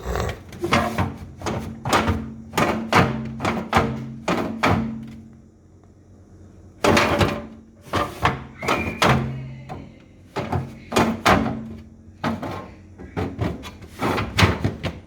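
Rapid runs of knocks and rattling thuds on a refrigerator, with a low hum sounding alongside them. They come in three clusters, with pauses about five and twelve seconds in.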